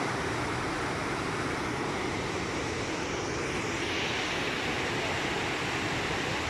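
Steady roar of rushing floodwater in a flowing wadi.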